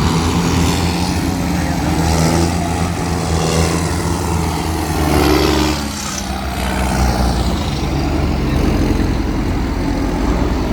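Tractor and lorry engines running steadily as the vehicles go by, the engine note shifting about halfway through.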